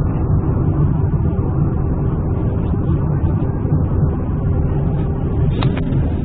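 Steady low rumble of a running vehicle, with a couple of faint clicks near the end.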